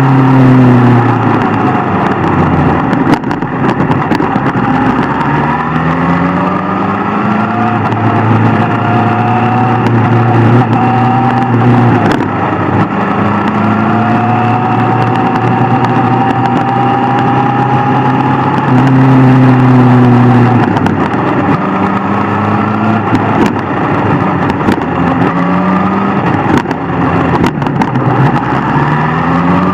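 Inline-four superbike engine accelerating hard. Its pitch climbs and drops back at each upshift, again and again, over a steady rush of wind.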